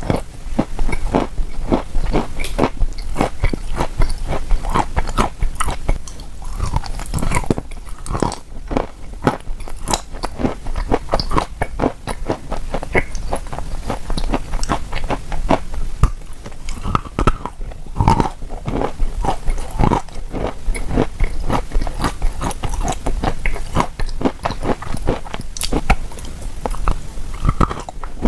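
Close-miked chewing of chalk coated in clay paste: a dense run of sharp crunches and crackles with each bite and chew.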